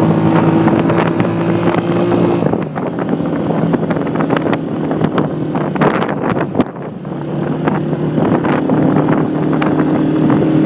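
Motorcycle engine running at a steady pace while riding, with wind rushing and buffeting over the microphone. The engine's steady note fades out for a few seconds in the middle and comes back.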